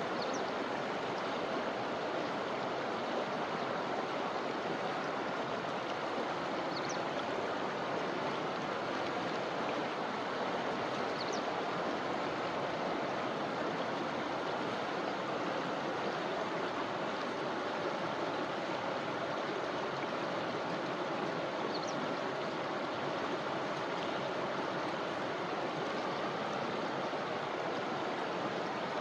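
River water rushing steadily over rocks in an even, unbroken flow. A few faint, short high chirps sound now and then above the water.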